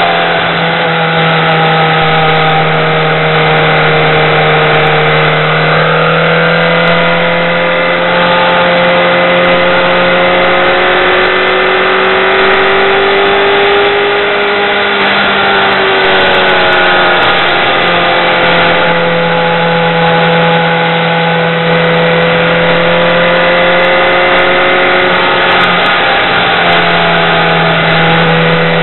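BMW K1200R motorcycle's inline-four engine running at a steady cruise, its pitch rising and falling gently with the throttle through the curves, under a constant rush of wind noise at the helmet.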